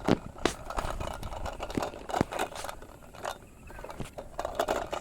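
A run of irregular sharp knocks, clicks and scrapes, with a quieter stretch a little past the middle.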